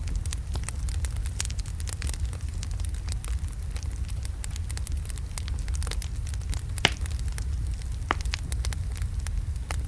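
Wood fire of large logs burning in a fireplace: a steady low rumble of flame with frequent sharp crackles and pops, one louder pop about seven seconds in.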